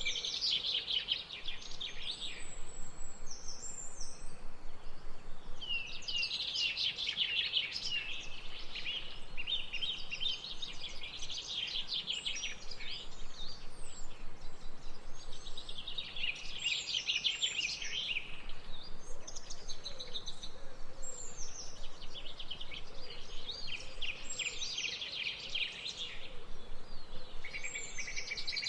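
Birdsong: a songbird sings fast trilling phrases, each lasting two to three seconds and coming every few seconds, over a steady background hiss.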